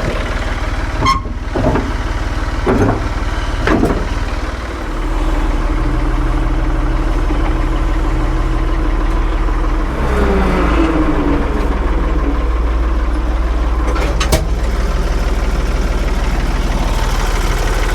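A 1975 Ford 550 tractor-loader's engine running steadily, with a few clunks in the first four seconds. The engine picks up about five seconds in, and its note sags briefly around ten seconds.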